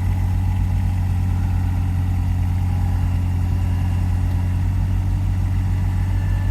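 Avant 423 compact loader's diesel engine running steadily at an even speed.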